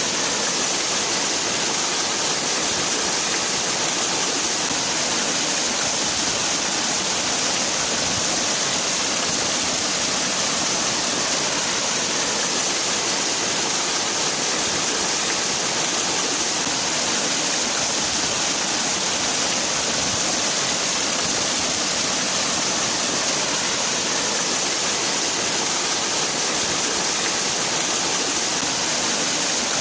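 Waterfall: water falling and splashing in a steady, unbroken rush, with a strong hiss.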